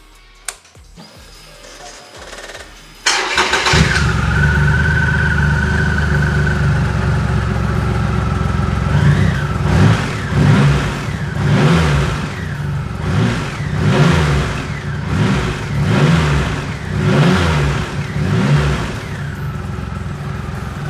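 Triumph Rocket 3 Roadster's 2.3-litre three-cylinder engine starting about three seconds in and catching at once into a steady idle. From about ten seconds in the throttle is blipped repeatedly, each rev rising and falling back, before the engine settles to idle near the end.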